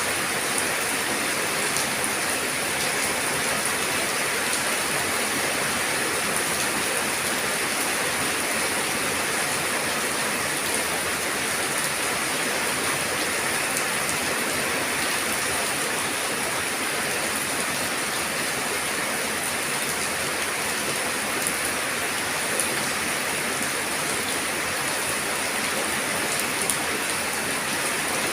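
Steady rain falling and pattering on surfaces, an even hiss with occasional distinct drops.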